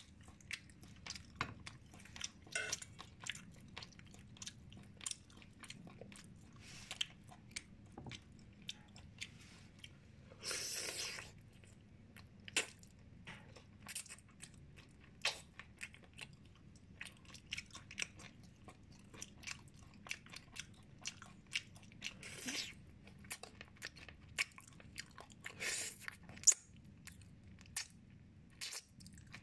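A person chewing and biting steamed chicken, with irregular small clicks throughout. A rush of noise lasting about a second comes about eleven seconds in, and shorter ones twice more later.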